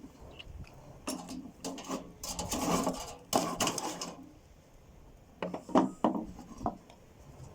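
Metal camp cookware being handled: a stretch of scraping and clattering, then a few sharp knocks and clicks.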